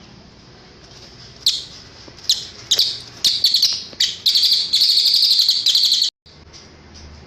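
Cililin bird singing: short, sharp, high chirps that come faster and run into a rapid trill, which cuts off suddenly about six seconds in.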